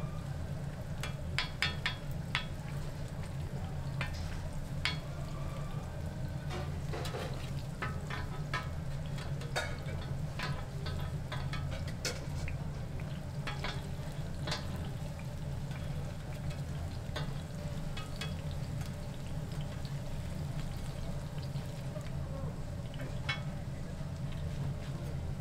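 Bindaetteok (mung-bean pancakes) frying in pork lard on a flat steel griddle, sizzling steadily, with many sharp clicks and scrapes of metal spatulas on the griddle, most of them in the first half. A steady low hum runs underneath.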